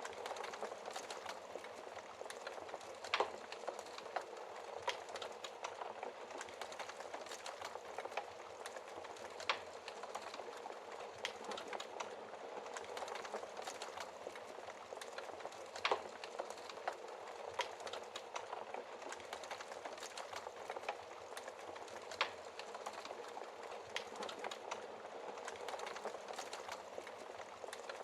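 Wood fire burning in a fireplace, with a steady crackle and frequent small clicks, and a handful of louder sharp pops from the burning logs, about every six seconds.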